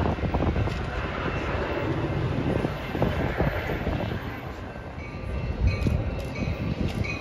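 A train rolling past, its wheels clicking and knocking over the rail joints as the noise eases off. A thin, steady high squeal joins in near the end.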